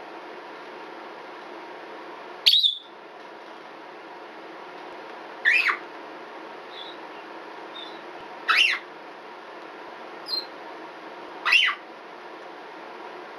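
Red-bellied parrot screaming: four loud, short calls about three seconds apart, each dropping in pitch. This is the smoke-alarm-beep-like scream characteristic of Poicephalus parrots. A few soft chirps come between the calls.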